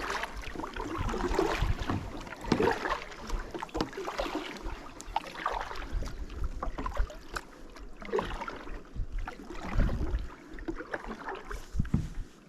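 Kayak being paddled: a paddle dipping and splashing in the water in repeated, irregular strokes.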